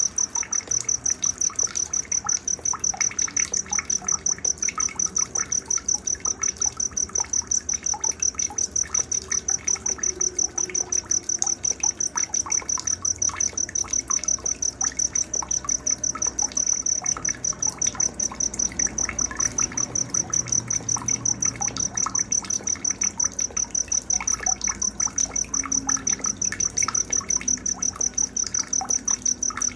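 Night nature ambience: a cricket chirping in a steady, rapid, evenly pulsed high trill, with scattered short bird chirps and a faint trickle of water beneath.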